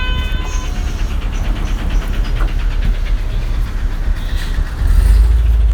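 Cabin sound of a 2004 compressed-natural-gas city bus, its engine running with a steady low rumble that grows louder about five seconds in. A short electronic chime sounds at the start.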